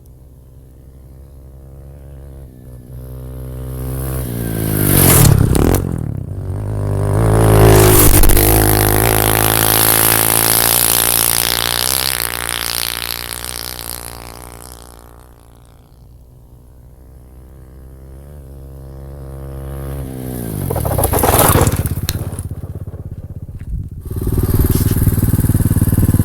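SSR 125 pit bike's single-cylinder four-stroke engine passing by twice, about five seconds in and again about twenty-one seconds in: it grows louder as it approaches, and its pitch drops as it goes past. Near the end it runs loud and steady close by.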